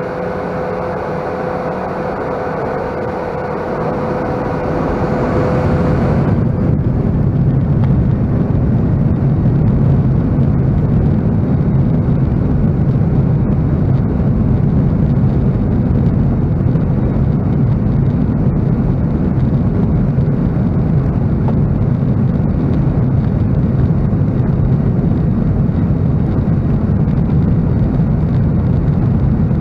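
Cabin noise of a Boeing 737-800 with its CFM56 turbofan engines: first a steady engine whine of several tones, then about six seconds in a louder, deeper steady rumble takes over and holds.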